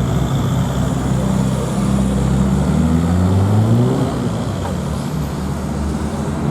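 Car engine running as the car drives past, its pitch climbing under acceleration for about two seconds in the middle, then falling away.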